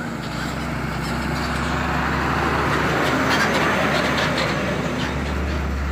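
Hino 500 truck's diesel engine running as the truck drives past, growing louder toward the middle as it comes close.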